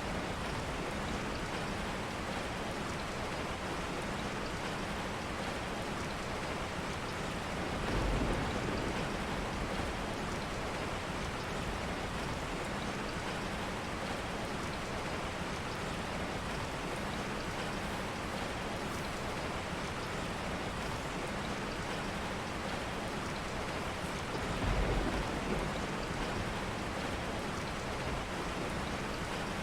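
Steady rain falling, an even hiss, with two brief low thumps, one about a quarter of the way in and another near the end.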